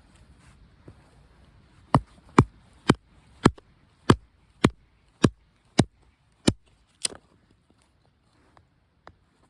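Wood being chopped: about ten sharp blows, roughly two a second, stopping about seven seconds in.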